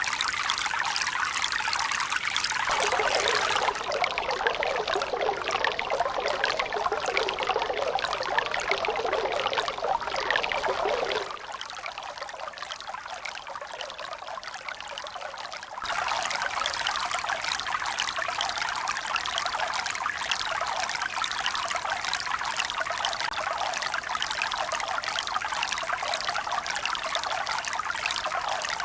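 Steady splashing of running water with no clear rhythm. The sound changes abruptly several times: its character shifts a few seconds in, it drops noticeably quieter about eleven seconds in, and it returns louder about five seconds later.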